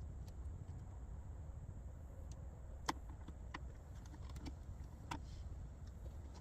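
A few sharp light clicks and taps, the clearest about three seconds in and about five seconds in, over a steady low rumble.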